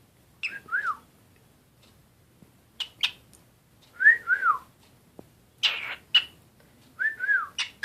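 Cockatiel whistling a short two-note phrase three times, each note rising then falling, with brief sharp chirps in between.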